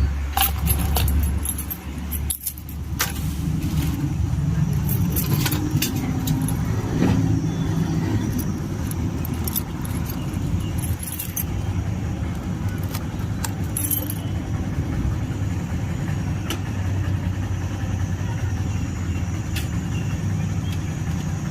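A vehicle engine running steadily, with scattered metallic clicks and jingles over the first half.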